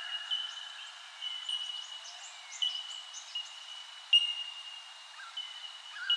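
Birds calling in chorus: clear, single-pitched high notes repeat about once a second, with short higher chirps between them.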